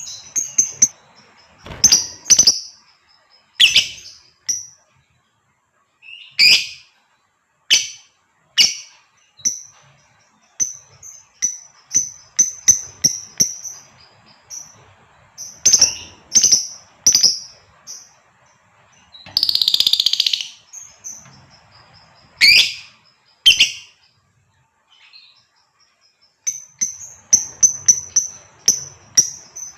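Female lovebird calling to a male with sharp, high chirps, some single and some in quick runs. About twenty seconds in comes one longer, harsher screech, and near the end a fast run of chirps.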